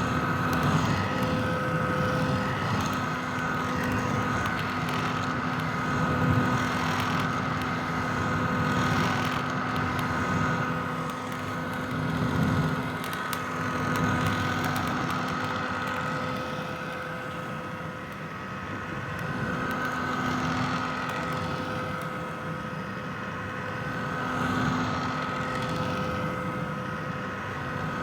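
Red vintage hair dryer running continuously: a rush of blown air with a steady high motor whine held through it, its loudness swelling and easing gently every few seconds.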